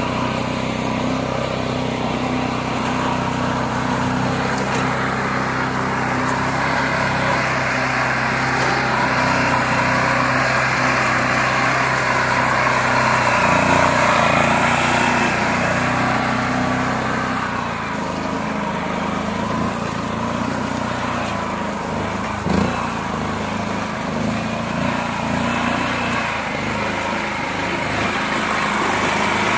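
Mini tractor engine running steadily, its note changing about halfway through; a single sharp knock a little past two-thirds of the way.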